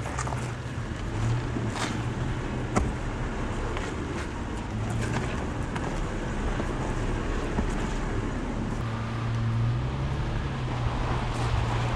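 An off-road 4x4's engine running steadily at low revs, rising and easing a little now and then, with a few sharp knocks and clicks, the clearest about two and three seconds in.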